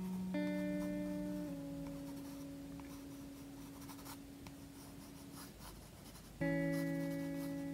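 A colouring pencil scratching in short shading strokes on sketchbook paper, under soft background music. The music's chords ring out and slowly fade, one struck just after the start and another near the end.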